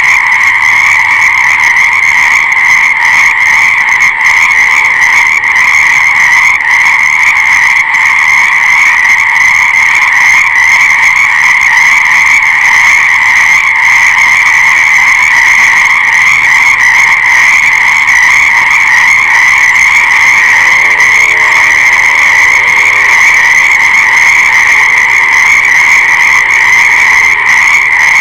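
Loud, dense frog chorus: many frogs calling at once in a steady, unbroken wall of sound. A fainter, lower call briefly joins in about twenty seconds in.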